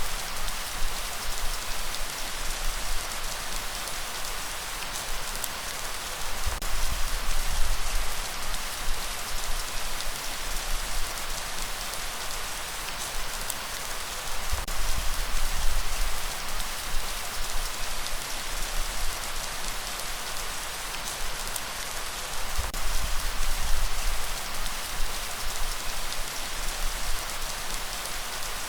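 Steady rain falling, a dense hiss of drops with fine individual drop ticks and a low rumble underneath that swells and eases every few seconds.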